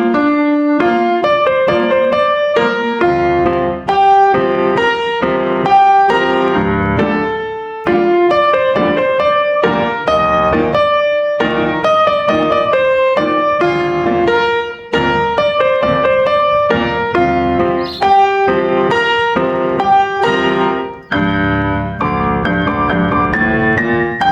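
Piano music: a melody of single notes and chords played at a moderate pace.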